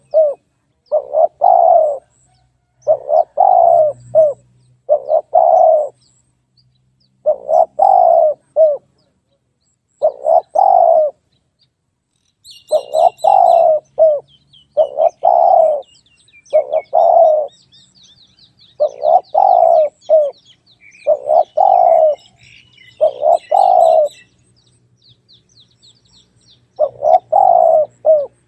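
Spotted dove cooing in repeated phrases about a second long, with gaps of roughly one to three seconds between them. Faint high chirps from smaller birds come in through the middle.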